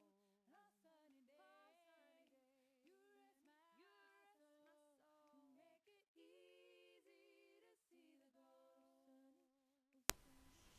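Faint background recording of women's voices singing a slow, gliding melody without instruments, heard very quietly. About ten seconds in, one sharp click cuts it off and a steady hiss of room noise follows.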